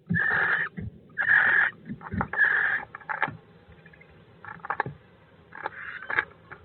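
Barn owl giving three harsh, hissing screeches of about half a second each in the first three seconds, followed by scattered knocks and scrapes as birds scuffle in the wooden nest box.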